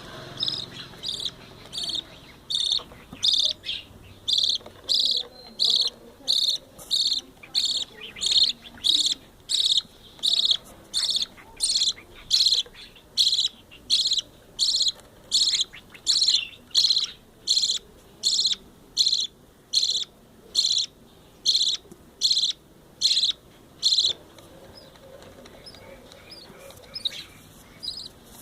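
Budgerigar chick about two weeks old giving a long, even run of short chirping begging calls, about one and a half a second. The calls stop about three seconds before the end and start again right at the end.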